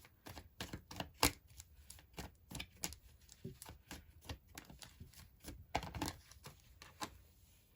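A tarot card deck being shuffled by hand: a run of irregular soft flicks and taps that stops about seven seconds in.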